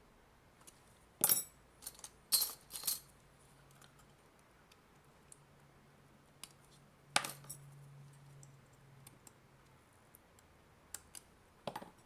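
Sharp metallic clinks and taps of small metal tools and parts being handled on a hard surface, a few loud strikes about a second in, at two and a half seconds, at seven seconds and near the end, with faint ticks between.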